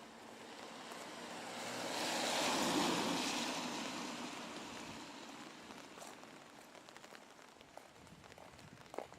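Vehicle passing on a rain-wet road: a rushing tyre hiss that swells to a peak about three seconds in and slowly fades away, with a click near the end.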